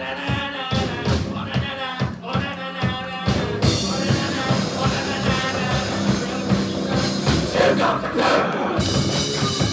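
Live rock band playing: drums keep a steady beat with some singing over them, and the full band with guitars comes in hard about three and a half seconds in.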